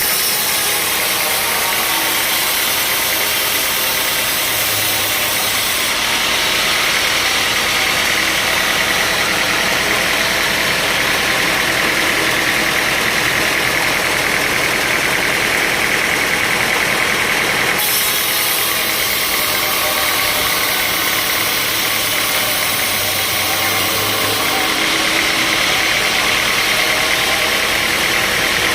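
Sawmill machinery running steadily: a continuous engine-like drone and hiss with no clear pauses. The high hiss changes abruptly a few times.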